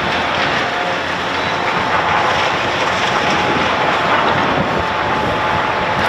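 Heavy machinery running: a steady, loud mechanical din with a faint constant whine.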